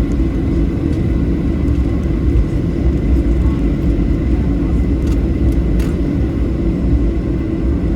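Boeing 737 jet engines running, heard from inside the cabin as a steady low rumble with a faint high whine held on one pitch.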